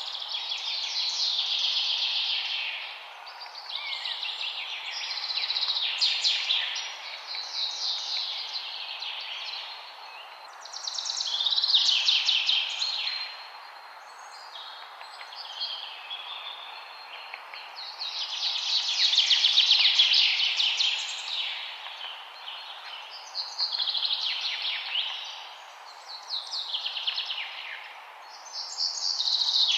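Wild birds singing: bursts of rapid, high chirping notes lasting a couple of seconds each, repeating every few seconds, over a steady faint rushing background.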